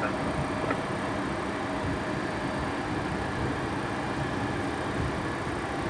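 Steady cockpit noise of an MD-80 airliner taxiing: an even rush of engine and air-conditioning noise with a faint constant high whine.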